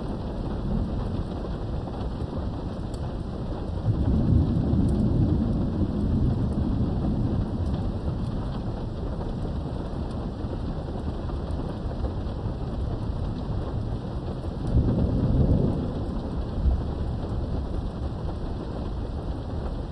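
Steady rain with two rolls of thunder, the first about four seconds in and lasting a few seconds, the second shorter, about fifteen seconds in.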